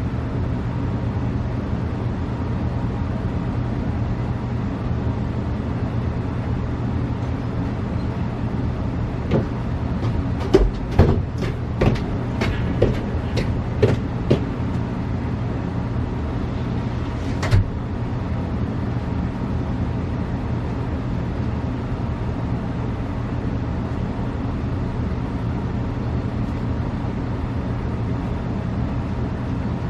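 A steady low hum with rushing noise, with a run of about eight sharp clicks or knocks near the middle and one more a few seconds later.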